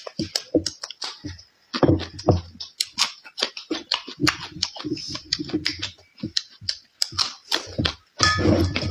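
A person eating noisily: wet chewing and mouth smacking in quick, irregular clicks, with a few heavier chomps.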